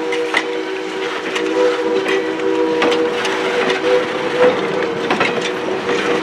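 Passenger coaches rolling slowly past, wheels clicking and knocking irregularly over the rail joints, with a steady chord of low tones held underneath.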